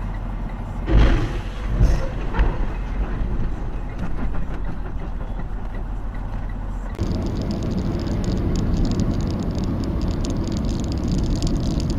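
Steady road and engine noise of a vehicle recorded on a dashcam, with a few loud thumps about one and two seconds in. About seven seconds in the sound switches abruptly to a different, steadier road noise.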